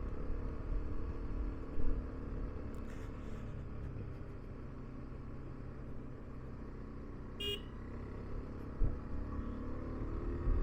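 KTM 390 Adventure's single-cylinder engine running steadily at low speed on the move. A brief horn toot sounds about seven and a half seconds in.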